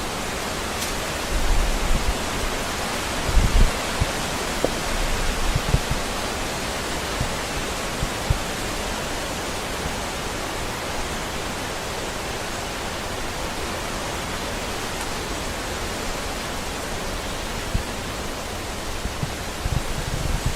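A steady, even rushing hiss with no tones in it. A few short low bumps break through in the first few seconds and again near the end.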